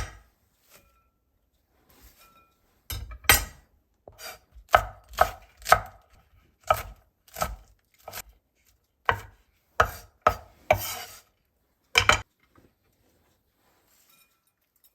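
Knife chopping on a cutting board: about a dozen separate strokes, each a sharp knock with a dull thud, coming slowly and unevenly about every half second, starting a few seconds in and stopping a few seconds before the end.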